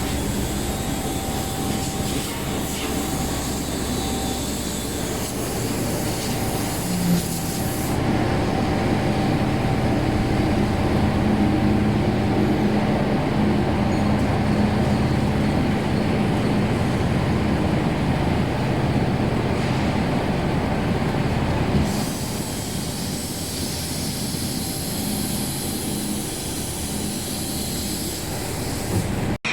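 Automatic horizontal flaskless green sand moulding machine running with a steady mechanical rumble and hum. The sound changes abruptly about 8 seconds in and again a little past 20 seconds.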